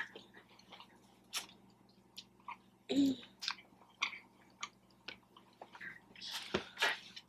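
A person chewing and biting food close to the microphone: scattered short smacks and clicks, with a brief voice sound about three seconds in.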